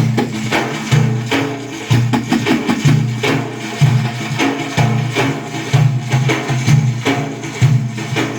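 Instrumental music with hand percussion: sharp drum and tambourine-like strikes beating a steady rhythm, about one to two a second, over a sustained low instrumental line.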